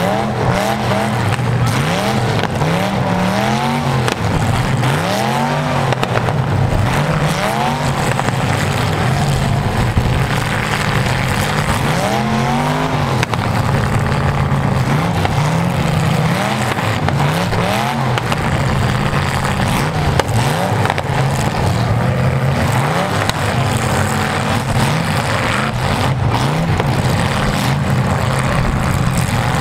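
Several V8 demolition derby car engines revving hard and falling back over and over, their notes overlapping, as the cars push against each other with wheels spinning in the mud.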